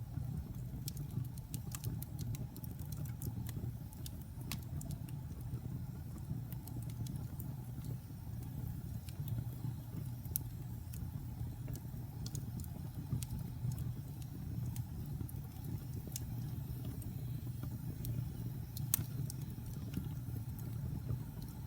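Wood fire burning in a fireplace: a steady low rumble of the flames with scattered sharp crackles and pops of the burning wood, one louder pop near the end.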